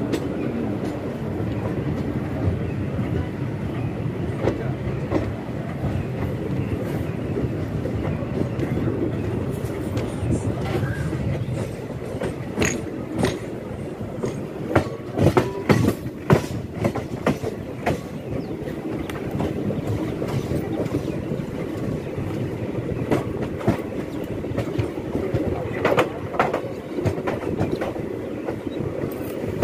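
Express train passenger coach running along the track: a steady low rumble of wheels on rail, with runs of sharp clickety-clack about halfway through and again near the end.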